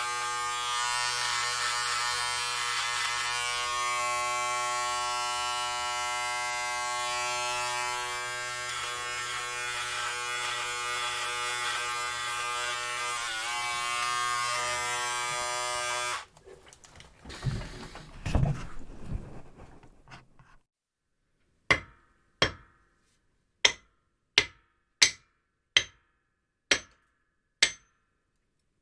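Electric hair clippers buzzing steadily, stopping suddenly about halfway through. A few low rumbling handling noises follow, then a hammer striking cement eight times at roughly one-second intervals, each blow with a short metallic ring.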